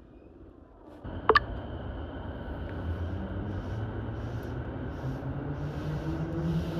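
Keihin-Tohoku Line E233-series electric train pulling away from a station. After a short sharp sound about a second in, the traction motor whine and running noise start, the whine rising steadily in pitch as the train gathers speed.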